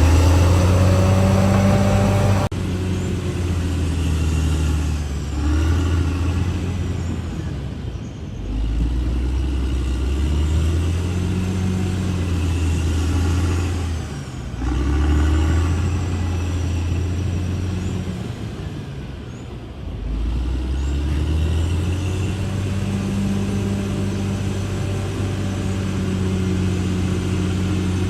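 CAT D6R XL bulldozer's diesel engine running under varying load, its low note sagging and picking back up several times, about every six seconds.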